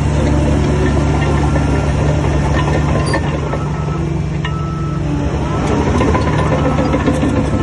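Heavy diesel engine of a bulldozer running steadily. It eases off about four seconds in and picks up again around six seconds, with occasional sharp metallic clanks.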